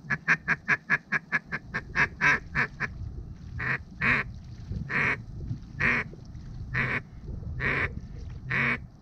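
Duck quacking: a fast run of short quacks for about the first three seconds, then slower, longer quacks about once a second.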